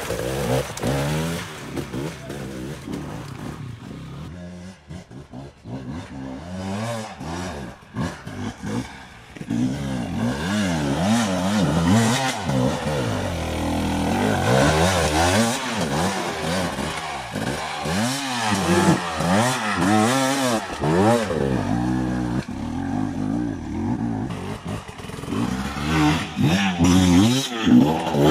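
Enduro dirt bike engine revving up and down in repeated bursts of throttle while it climbs over rock. It runs quieter, with scattered knocks, for a few seconds before the revving picks up again.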